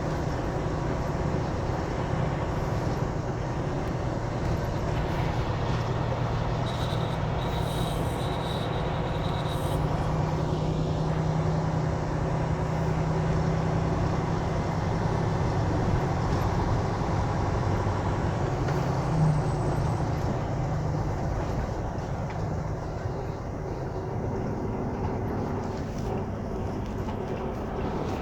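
Steady vehicle running noise: a low engine hum over road noise.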